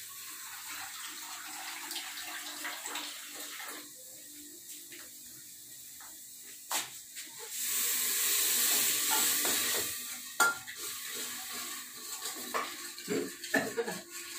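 Onion-tomato masala sizzling in an aluminium pressure cooker; about seven and a half seconds in, a cup of water poured into the hot masala sets off a loud hiss for a couple of seconds. After it, a steel ladle clinks and knocks against the pot as the masala is stirred.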